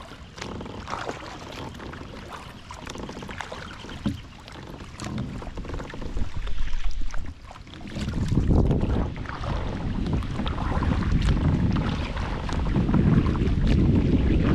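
Kayak paddle strokes splashing in lake water, with wind buffeting the microphone that turns into a heavy rumble about halfway through.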